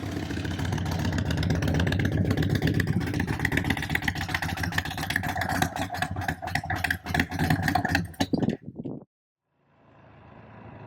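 Indian Chief Bobber's V-twin engine running hard under acceleration, loud and pulsing, building over the first couple of seconds. It cuts off suddenly about nine seconds in.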